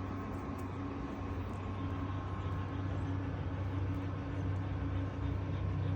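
Steady low mechanical hum over a constant faint hiss, unchanging throughout.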